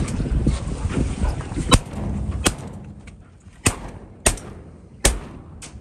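Shotgun shots from duck hunters firing at incoming scoters: about five loud cracks at uneven spacing over roughly three and a half seconds, with a few fainter shots between. A steady low rush of wind and boat noise runs under the first half.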